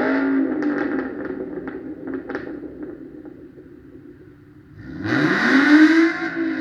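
Ford Mustang's exhaust being revved. The note falls away with crackling pops over the first few seconds, then about five seconds in the engine revs sharply up and holds high.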